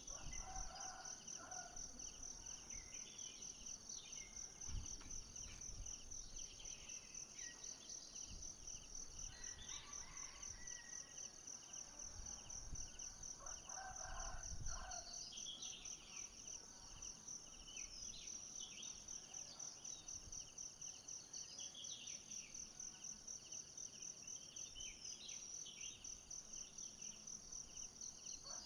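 Tropical forest ambience: a steady, high-pitched, rapidly pulsing insect chorus throughout, with scattered short bird calls over it and a couple of soft low thumps.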